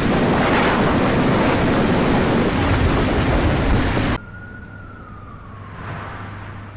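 Typhoon storm noise: loud wind buffeting, with no clear pitch, for about four seconds, then an abrupt cut to a quieter scene where an emergency siren's single tone slowly falls in pitch and begins to rise again near the end, over a steady low hum.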